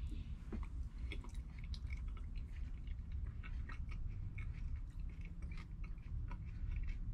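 A person chewing a forkful of shepherd's pie, with small irregular wet clicks and smacks of the mouth, over a low steady rumble.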